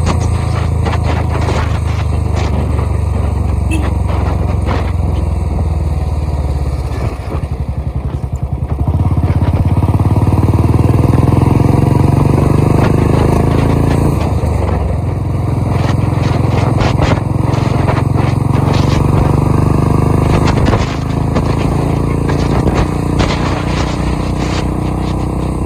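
Tractor engine running loudly. About seven seconds in it slows to a low idle with separate firing pulses, then revs back up and is held high, with another rise in pitch near the end.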